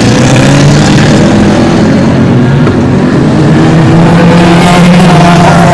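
Banger racing cars' engines running and revving together on a dirt track, a loud, steady low engine drone with noise from the cars and track over it.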